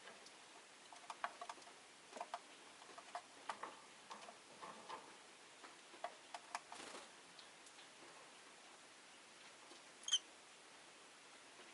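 Rosy-faced lovebirds making soft, short chirps and clicks, scattered irregularly for several seconds. About ten seconds in, one bird gives a single sharp, high chirp, the loudest sound here.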